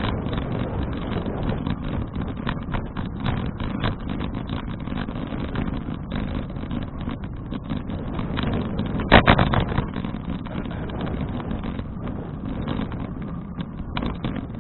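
Wind buffeting an action camera's microphone and road rumble while riding a bicycle, with scattered clicks and one loud knock about nine seconds in.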